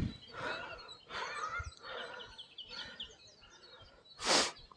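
Small birds chirping over and over in the scrub, many short high chirps, with fainter calls mixed in. Near the end, a short burst of noise hits the microphone.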